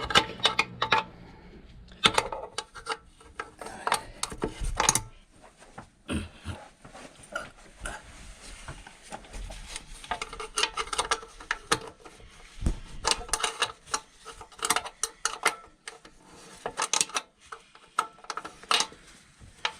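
Metal hand tools clinking, knocking and scraping on the bolts and fittings of a scooter's exhaust silencer as they are slackened: scattered, irregular clicks and rubs.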